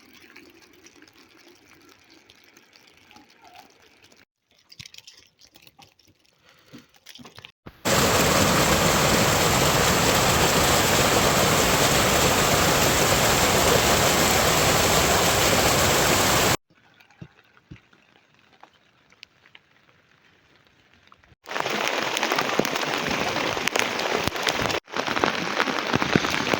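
Steady rain noise that cuts in and out abruptly: a loud stretch of rain begins about a third of the way in and stops suddenly just past the middle. It returns near the end with pattering drops. Between the rain stretches are quiet gaps with only faint scattered sounds.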